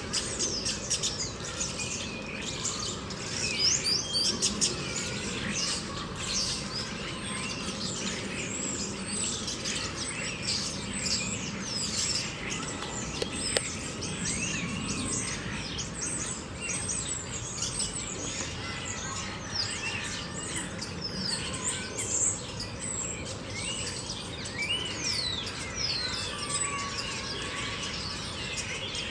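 Many small birds chirping together, a dense chorus of short, high calls overlapping without a break.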